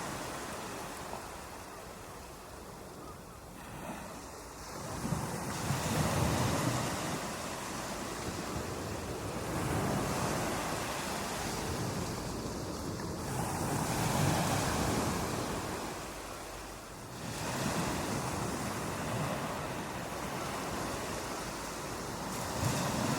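Ocean surf breaking on a beach, the noise of the water swelling and falling back in about five surges, one every four to five seconds.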